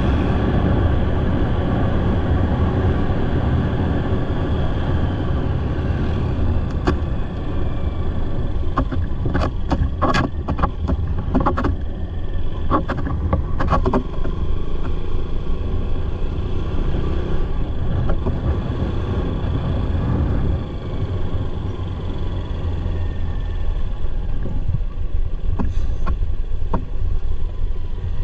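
Motorcycle riding along the road: a steady low engine and road rumble. A scatter of sharp clicks and knocks comes through in the middle stretch and again near the end.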